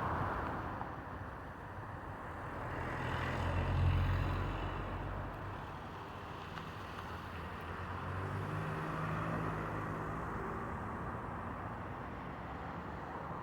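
Storm ambience at night: a steady rushing noise, with a low rumble that swells to a peak about four seconds in and comes back more weakly later.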